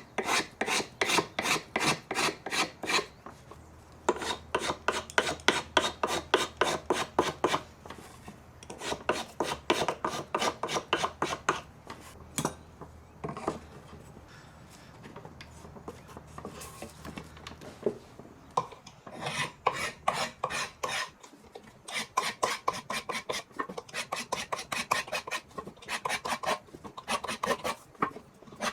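Hand rasping or filing: a tool scraped back and forth by hand, about four strokes a second. The strokes come in runs of a few seconds with short pauses between, and they are fainter for a while in the middle.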